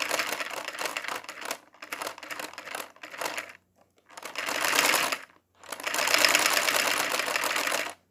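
Lego vacuum engine model running in short spells, a fast plastic clatter from its moving parts that stops and starts again about five times. It sounds weird, a rattle unlike a normal engine.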